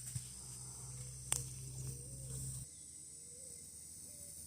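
Faint, steady high-pitched chirring of insects in the background, with a single sharp click about a second and a half in and a low hum that stops a little past halfway.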